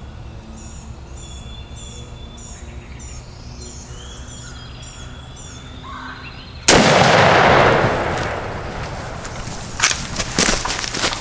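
A small bird chirping in short repeated phrases, then about two-thirds of the way in a single shotgun blast at a wild turkey gobbler, loud, with its echo rolling on for about a second before fading. Near the end comes a run of sharp irregular rustles and thumps.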